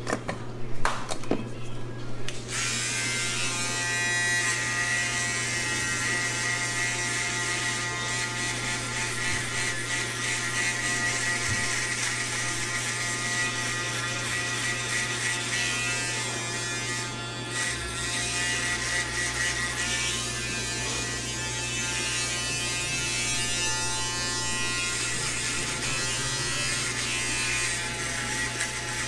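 Electric hair clippers switched on after a few clicks about two seconds in, then buzzing steadily while trimming a beard.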